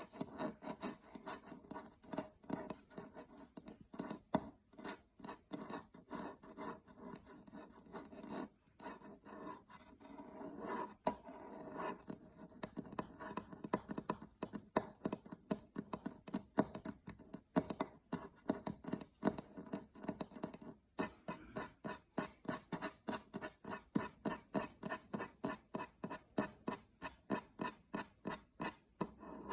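Fingernails scratching and rubbing on a surface in quick repeated strokes. They settle in the second half into an even rhythm of about two to three strokes a second.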